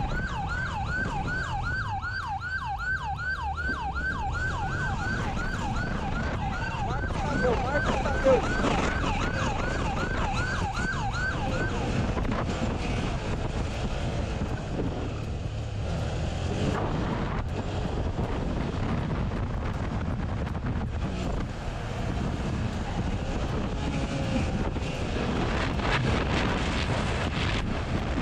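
Police siren on a yelp setting, going through about three quick pitch sweeps a second and stopping about twelve seconds in. After that, steady road and vehicle noise with wind buffeting the microphone.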